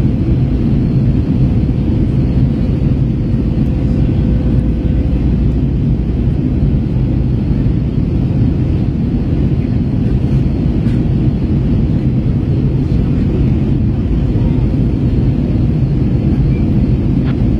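Steady roar of an Airbus A321's engines and airflow heard inside the passenger cabin as the jet climbs out at climb power after a go-around, with a faint steady hum running through it.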